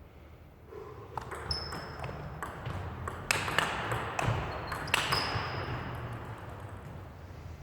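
Table tennis ball clicking off bats and table in a rally: a run of sharp, irregularly spaced ticks, some with a brief high ring, starting about a second in.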